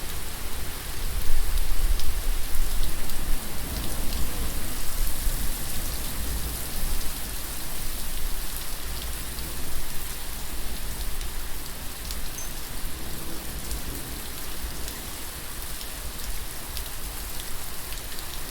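Steady rain falling, with many separate drops ticking against a surface over a continuous hiss and a low rumble underneath. It grows gradually softer over the second half.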